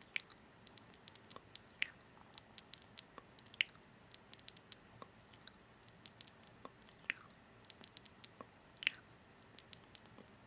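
Close-miked chewing of food: a run of short, crisp, wet clicks and smacks, several each second.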